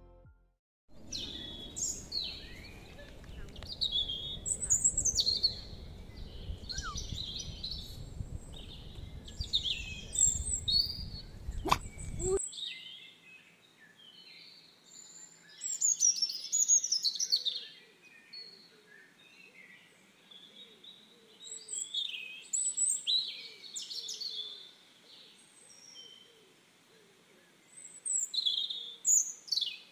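Several songbirds singing and chirping at once, many short, quick phrases overlapping. For the first twelve seconds or so a low rumbling noise runs underneath, then cuts off suddenly, leaving the birdsong alone.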